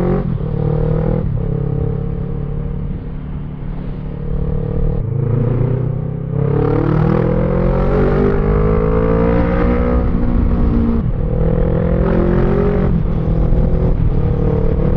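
Kawasaki ER-6N 650 cc parallel-twin with a custom midpipe and gutted exhaust, running under way and pulling through the gears: the engine note rises and breaks off at several gear changes, with its longest climb in the middle, over a steady rush of wind and road noise.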